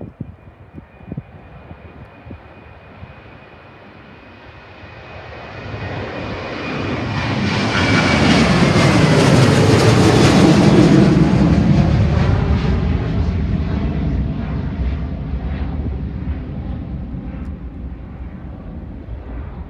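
Jet airliner's engines at takeoff power passing by: the sound grows louder to a peak and then slowly fades, with a high whine that falls in pitch as it goes by.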